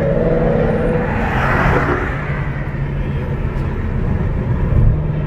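Car engines running with a steady low exhaust rumble, with a brief rush of noise rising and fading about a second and a half in.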